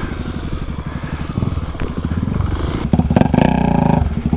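Dirt bike engine running under load, picking up with a stronger burst of throttle about three seconds in.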